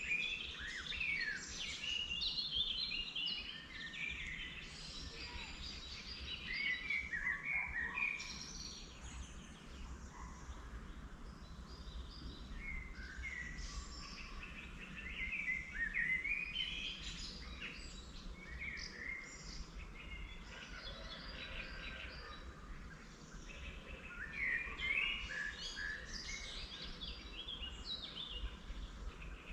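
Several wild songbirds singing in spring, a busy mix of short chirps and warbled phrases coming in clusters, over a steady low background rumble.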